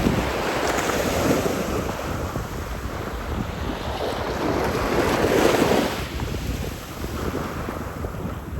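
Sea waves washing onto the shore, rising and falling in swells, with wind buffeting the microphone.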